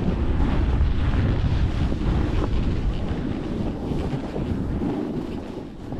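Strong blizzard wind buffeting the microphone: a loud, steady low rumble of rushing noise that eases slightly near the end.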